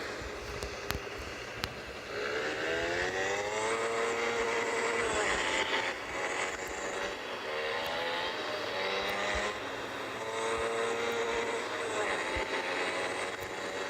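Motorcycle engine accelerating. Its note rises steadily for a few seconds, then breaks off and climbs again several more times, as it does through gear changes.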